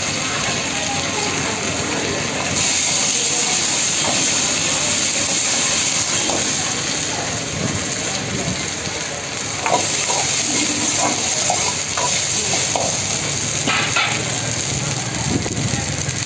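Chicken with capsicum and onion sizzling in a hot iron wok over a gas burner, stirred with a long steel ladle. The hiss of the frying grows louder about two and a half seconds in.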